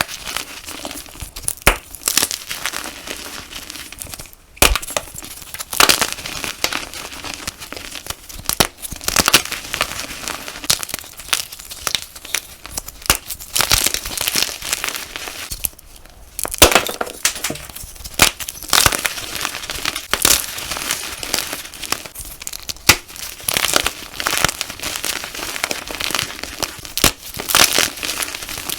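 Reformed gym chalk being crushed and crumbled close to the microphone: a dense run of irregular, crisp, glassy crunches and crackles, broken by two short pauses, about four and sixteen seconds in.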